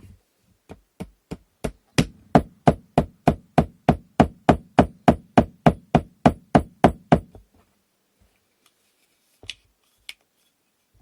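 A hammer tapping a wooden part of an inkle loom during assembly, in a quick, even series of knocks. A few light taps build to about twenty firm strikes at roughly three a second, which stop about seven seconds in. Two faint clicks follow near the end.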